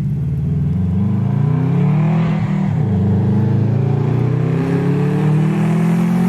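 Exhaust note of a 2004 Subaru WRX's turbocharged flat-four through a catless Spec D cat-back exhaust, accelerating with the pitch climbing, dropping briefly about two and a half seconds in, then rising slowly again.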